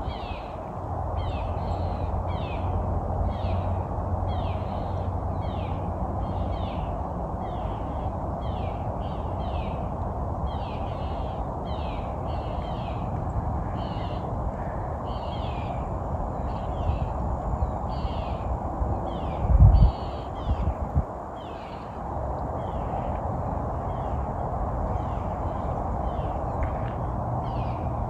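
Birds calling over and over, short high calls coming two or three a second, over a steady low rumble; one loud thump about twenty seconds in.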